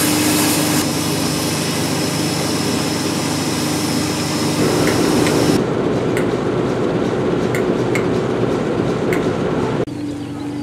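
Steam hissing loudly from a Ferrum 0-6-0T steam tank locomotive. About halfway through, a BR Class 08 diesel shunter runs past with its engine running and a few sharp clicks from the wheels on the track. Near the end, the quieter steady rumble of the train heard from on board.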